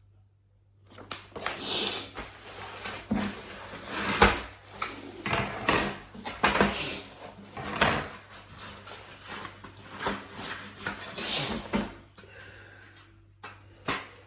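Thin metal parts of a folding fire stand clinking, knocking and scraping as they are handled, an irregular run of clatter that starts about a second in and eases off near the end.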